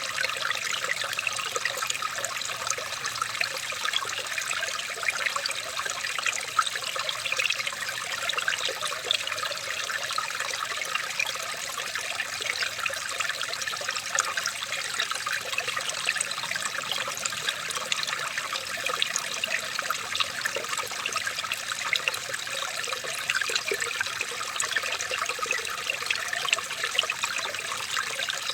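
Running water trickling and splashing steadily, like a small stream, with no change in level.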